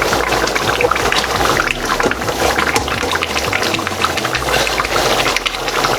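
Spinach and chicken stew bubbling in the pot, a dense, steady run of small pops and crackles.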